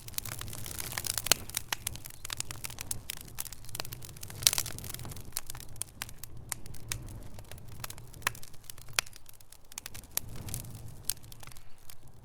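Wood fire burning in a fireplace, crackling with a steady stream of irregular sharp pops over a low rumble. One louder pop stands out about four and a half seconds in.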